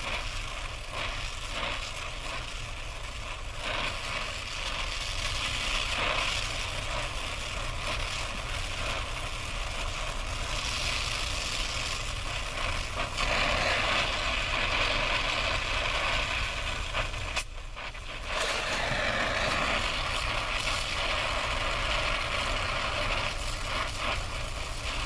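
Brazing torch flame hissing steadily while copper refrigerant line joints on an air-conditioner evaporator coil are soldered. The hiss drops out briefly about two-thirds of the way through, then resumes.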